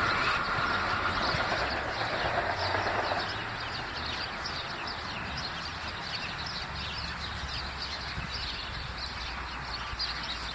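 A Metro-North M8 electric train pulling away into the distance, its steady whine and rumble dying out over the first few seconds. Birds chirp throughout.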